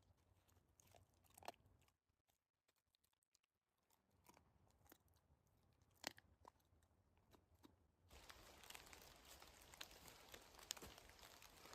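Near silence with faint, scattered crunches and clicks. About eight seconds in, a steadier hiss sets in abruptly, with more small crunches.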